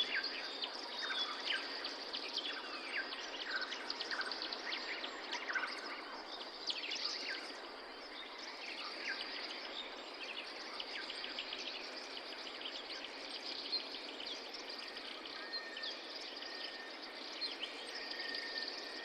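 Several forest birds chirping and calling in quick, overlapping short notes over a steady background hiss. A thin, steady high tone joins about three-quarters of the way in.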